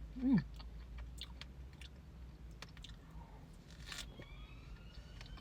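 A person biting into and chewing a fresh strawberry, with small wet mouth clicks and crunches, and a short falling hum near the start. From about two-thirds of the way in, a distant siren rises and falls faintly.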